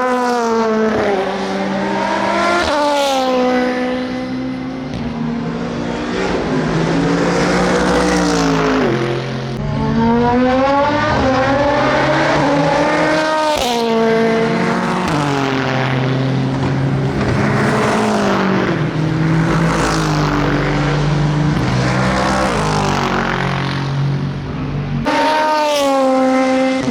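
SUPER GT racing car engines on a circuit, climbing in pitch under acceleration and dropping back on lifts and downshifts, over and over. The sound changes abruptly about a third of the way in and again near the end.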